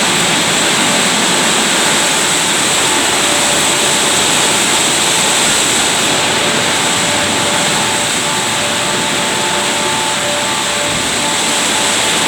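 Christ Genius rollover car wash running: a steady, loud rushing noise with a few faint steady tones.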